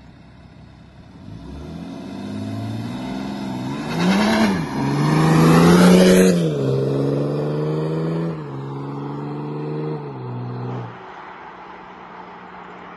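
Tuned BMW F11 530d's three-litre straight-six diesel, with a 3-inch downpipe, accelerating as the car drives by. The engine note climbs in pitch with an upshift about four and a half seconds in, is loudest as the car passes about six seconds in, then drops in pitch and fades.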